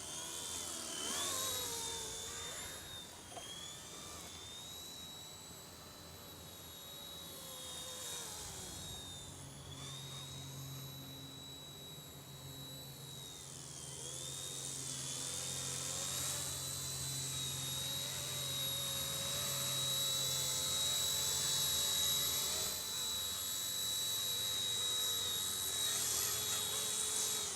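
Small electric RC helicopter (RC Era C138 Bell 206) in flight: a high motor and rotor whine that dips and rises in pitch with the throttle, and grows louder in the second half.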